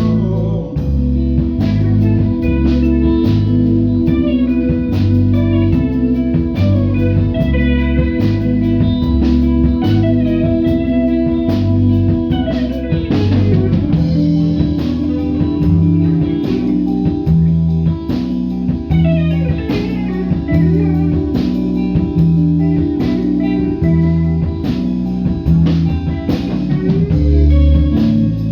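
A rock band playing an instrumental passage: electric guitar over bass guitar and a drum kit keeping a steady beat, with guitar slides in the middle.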